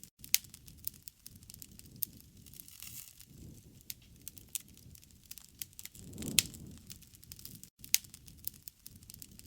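Wood fire crackling, with scattered sharp pops of burning wood, two of them loud: one right at the start and one about eight seconds in. Low rushing swells rise and fall every few seconds beneath the crackle.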